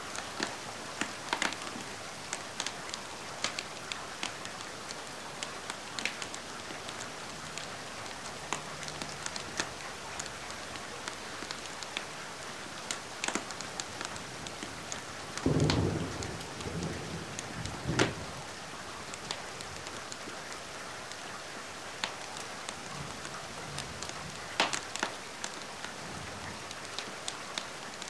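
Steady rain with a fireplace crackling through it in sharp scattered pops. About halfway through comes a louder low rumble lasting two or three seconds.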